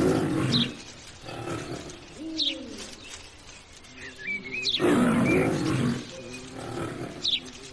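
Lion roaring twice, once at the start and again about five seconds in, with birds chirping in the background.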